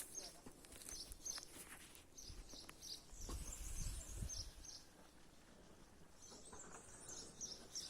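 Small birds chirping faintly in woodland, short high chirps repeated over and over. A low rumble rises for a moment about three seconds in.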